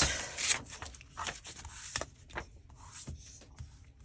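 Paper being torn and handled: a few short rasping rips and rustles with light taps, the loudest near the start.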